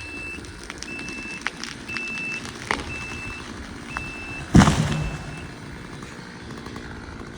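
Backup alarm of heavy equipment beeping about once a second over a low engine rumble as the machine reverses, stopping a little past halfway. A single loud thump comes shortly before the beeping stops.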